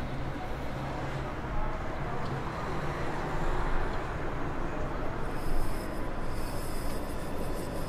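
Low, steady city rumble of traffic, with a U-Bahn train approaching from about five seconds in, its wheels starting to squeal high on the rails.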